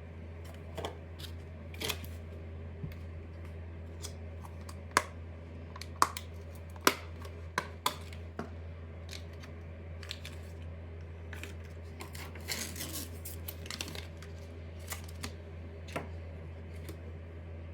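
Kitchen handling sounds: scattered sharp clicks and taps of utensils and dishes, the loudest few between about five and eight seconds in, with a brief scraping rustle a little past the middle, over a steady low hum.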